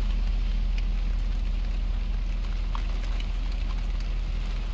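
Freezing rain falling, with scattered small ticks of drops over a steady low rumble.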